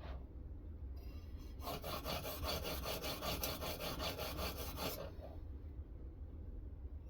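A sharpening stone in a guided knife-sharpening system rubbing along a knife edge in a fast, even run of short strokes, starting about a second and a half in and stopping about five seconds in. A light click comes right at the start.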